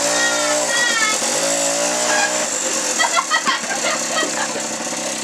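Small 90cc engine running and being revved, its pitch rising and falling several times.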